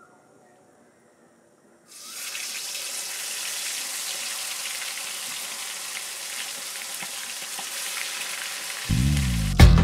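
Coated chicken drumsticks dropped into hot oil in an iron kadai, starting suddenly about two seconds in and sizzling steadily. Music comes in near the end.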